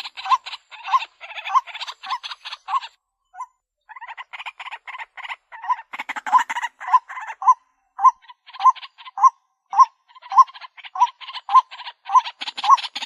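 White-breasted waterhen calling: a long run of short, repeated notes, a little under two a second, over a harsh chattering, with a brief break about three seconds in.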